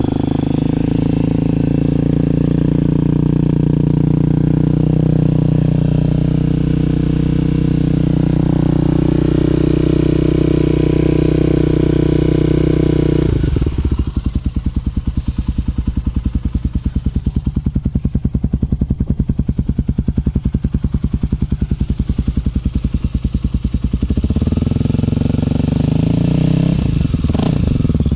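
Kawasaki KLX250's single-cylinder four-stroke engine idling through an FMF exhaust on a cold start with the choke on, first at a steady fast idle. About halfway it suddenly drops to a slower idle, each firing pulse heard separately. Near the end it picks up again with a short blip of revs.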